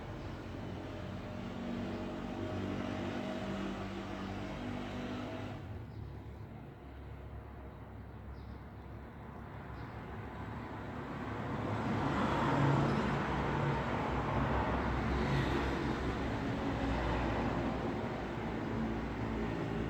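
Road traffic with vehicles going by: engine hum for the first few seconds, a dip about six seconds in, then a rising rush that is loudest around twelve seconds in and stays strong to the end.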